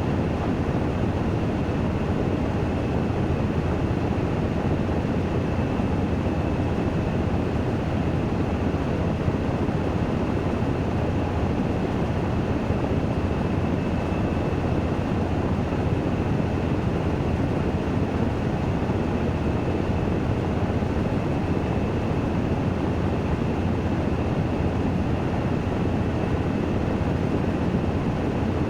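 Washing machine on its spin-dry cycle: a steady rushing drum noise with a faint high whine, unchanging in level.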